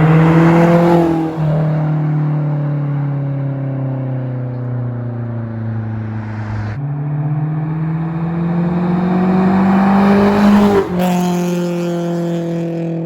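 Honda S2000's four-cylinder engine through a Skunk2 aftermarket exhaust, pulling under throttle with its pitch rising. The pitch drops suddenly about a second in and again near the end, then sags slowly as the revs fall. The exhaust note is really loud.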